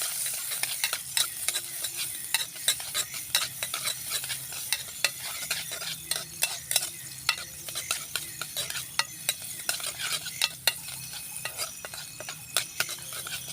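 Food sizzling in a frying pan while a spatula stirs it, with many quick scrapes and taps of metal against the pan.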